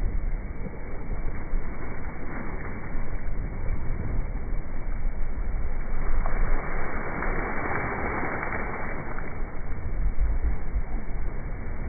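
Wind buffeting the microphone over the rush of water along a Laser sailing dinghy's hull as it sails upwind, with a louder swell of rushing water from about six to nine seconds in.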